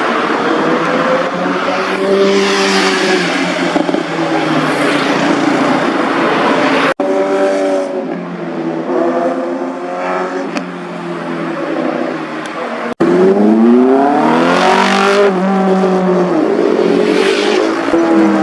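High-revving superbike engines and exhausts passing by, their pitch rising under acceleration and falling away, in three clips joined by abrupt cuts about a third and two thirds of the way in.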